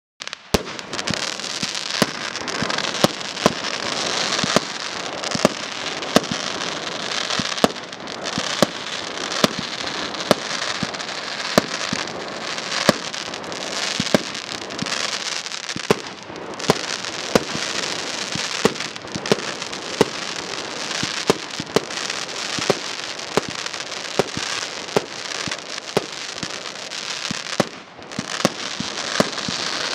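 'Tornado' firework going off: a continuous dense crackling, with sharp bangs about twice a second. It starts abruptly and falls away briefly twice.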